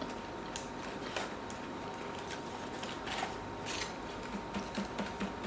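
Close-up chewing of food, with irregular crisp crunches (two stronger ones a little past the middle) and small wet mouth clicks near the end.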